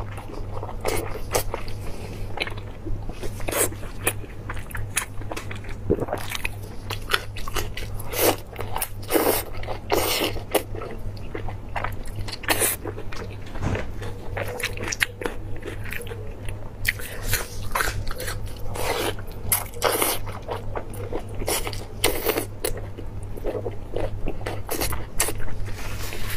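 Close-miked eating: a woman chewing and biting glazed braised meat, with irregular wet mouth clicks and smacks throughout. A steady low electrical hum runs underneath.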